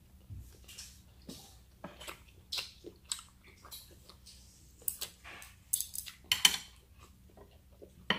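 Close-up chewing of squid and rice: irregular wet mouth smacks and crunches, loudest a little past the middle, with light clicks of chopsticks and dishes and a sharp click near the end.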